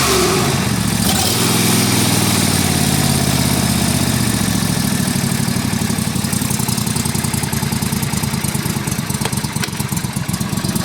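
Small gas lawnmower engine running, dropping in speed within the first second or so to a slower, pulsing run, then dying near the end.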